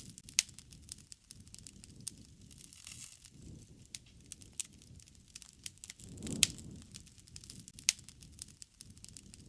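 Wood fire crackling, with scattered sharp pops over a soft low rush of flame that swells briefly about six seconds in.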